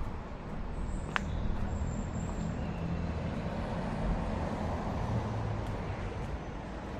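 Road traffic: a steady motor-vehicle rumble that swells about a second in and holds, with one sharp click about a second in.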